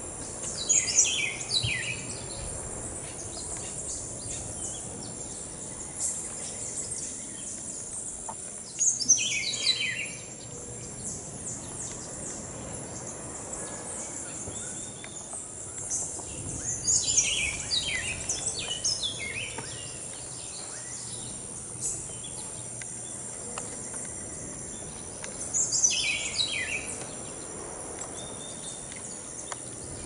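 A bird singing four bouts of quick notes that fall in pitch, spaced about eight seconds apart, over a steady high insect buzz.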